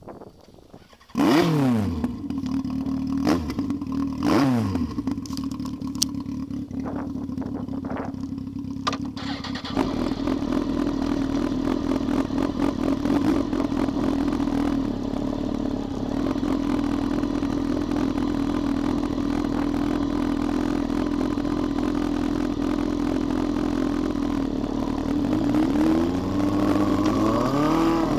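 Honda CBR954RR's inline-four engine starting about a second in, its revs flaring and falling back to idle, then blipped once, with a few sharp clicks. About ten seconds in it pulls away and runs steadily under wind noise, the revs rising near the end.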